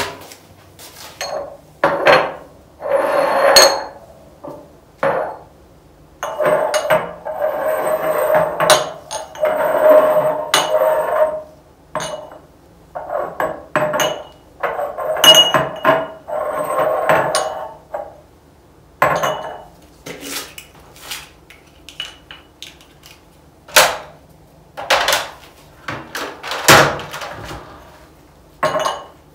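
Glass spice jars and their lids being handled on a kitchen counter: many scattered clinks and knocks, with several longer rustling stretches of a few seconds each.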